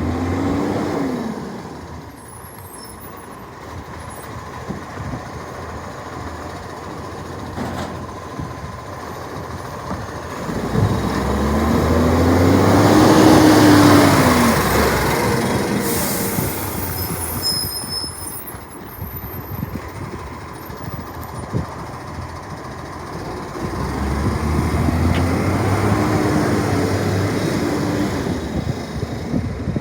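Recycling garbage truck's diesel engine revving up and back down three times, the loudest in the middle, as it powers the bin-lifting arm to tip bins. A short hiss of air, typical of the air brakes, comes about halfway through.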